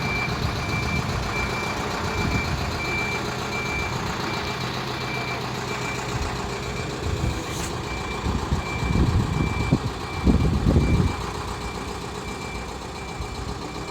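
A vehicle's reversing alarm beeping, one even high tone repeating throughout, over an engine running, with a few louder low rumbles about two-thirds of the way through.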